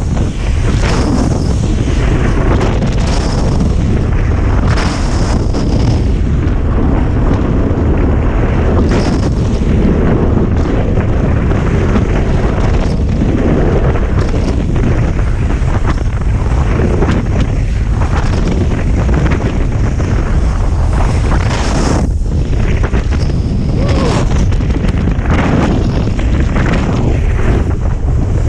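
Wind buffeting a GoPro's microphone in a blizzard: a loud, steady rumble that swells and dips with the gusts.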